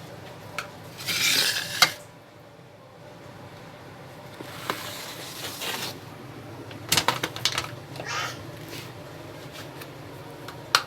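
Metal pot and utensil clinking and scraping as pieces of sheep fat-tail are put into a pot on the stove, with a few short hissing bursts between the clinks.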